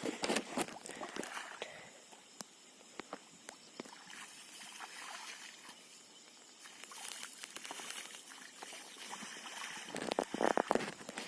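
River water sloshing and splashing in irregular bursts, with scattered small clicks. The splashing is busier at the start and again near the end.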